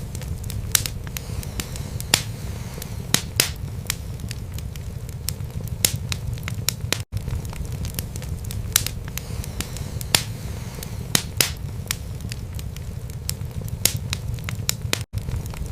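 Wood fire burning in a fireplace: sharp crackles and pops about once a second over a steady low rumble of the flames. The sound cuts out for an instant twice, about seven seconds in and near the end.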